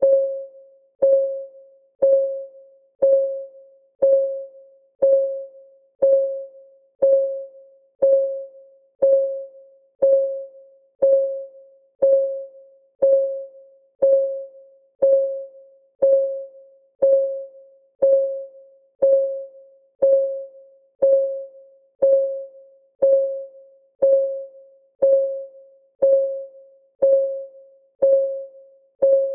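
Countdown timer's clock-ticking sound effect: one short tick every second, each a brief pitched ping that dies away quickly, in a steady, unchanging rhythm.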